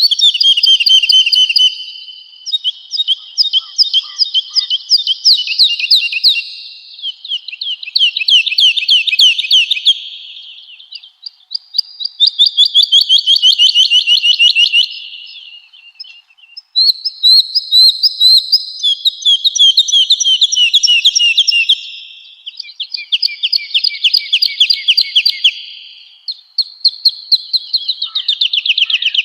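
Woodlark singing: phrase after phrase of rapid, repeated trilled notes, each phrase a few seconds long, with short pauses between.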